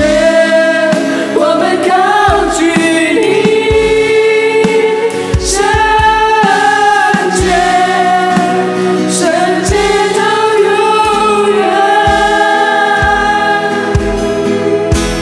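A Chinese Christian worship song, with a choir singing long held notes over a band. A steady drum beat and cymbals play under the voices.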